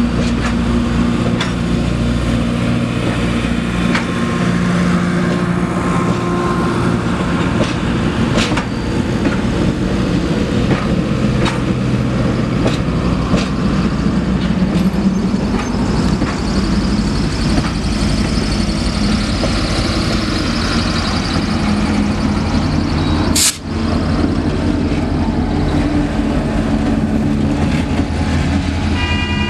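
Passenger train cars rolling past at close range: steady wheel-on-rail rumble with a low drone and scattered sharp clicks from the wheels. There is a brief break about two-thirds of the way through. The diesel locomotive comes by near the end, and a horn note starts right at the close.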